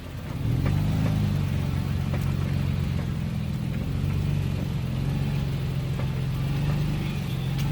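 Toyota Tacoma pickup's engine running steadily, its pitch rising slightly about half a second in and then holding, with a few faint knocks.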